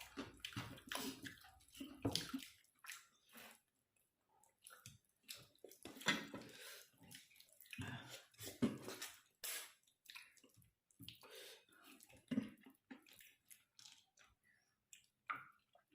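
Close-up eating sounds: irregular wet chewing, lip smacks and slurps from a person eating, with short pauses between bites.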